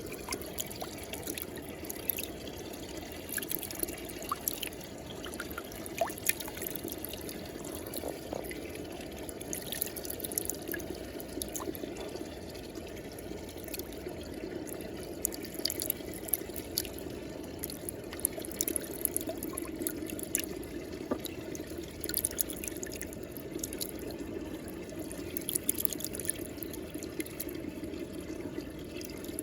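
Muddy water swirling in a whirlpool: a steady rush and trickle of water with many small drips and splashes scattered through it.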